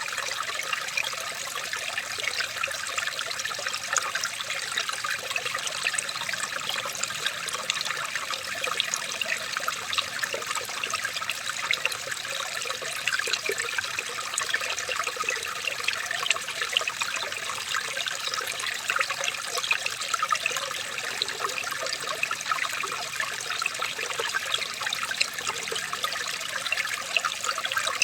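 Running water trickling and splashing steadily, a dense patter of small splashes.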